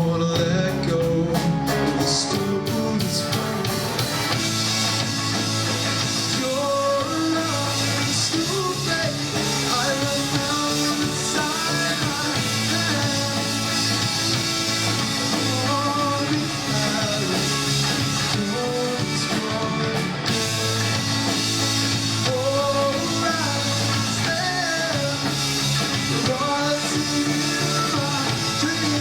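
Live rock band playing: electric guitar, bass and drum kit, with a singing voice carrying a wavering melody over them.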